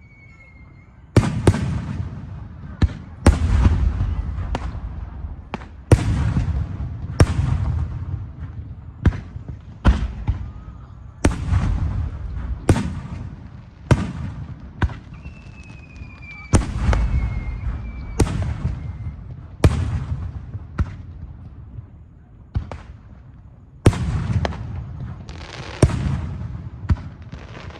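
Aerial fireworks display: shells bursting one after another with sharp bangs, each followed by a low rumbling echo that dies away, some twenty in all at uneven spacing. A thin falling whistle is heard a little after halfway.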